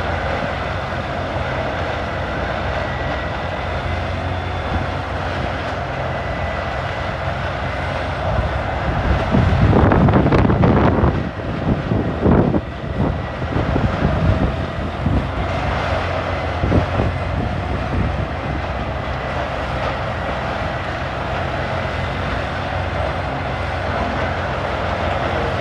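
CBI 6800 CT horizontal grinder running steadily at working speed, with a louder, rougher stretch about nine to fourteen seconds in as wood goes through it.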